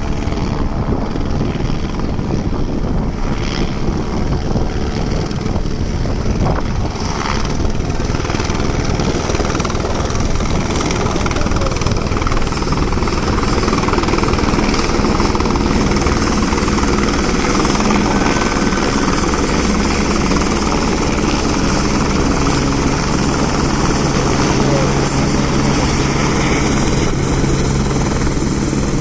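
Helicopter running close by: loud, steady rotor and engine noise with a thin high whine over it, growing slightly louder after about ten seconds.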